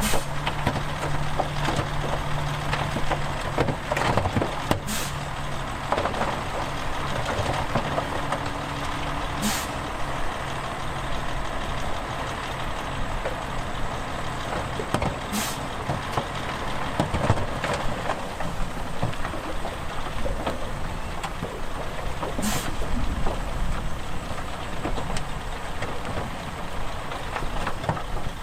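Heavy diesel machinery running steadily at a dump-truck and bulldozer earthmoving site. Four short, sharp air hisses come at irregular gaps, typical of a truck's air brakes releasing.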